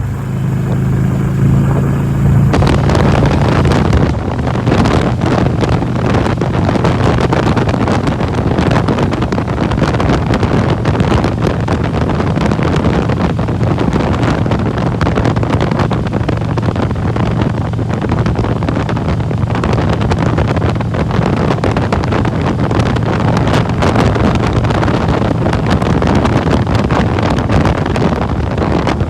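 Harley-Davidson Electra Glide's V-twin engine running steadily while riding, with heavy wind buffeting the microphone that grows much louder about two seconds in.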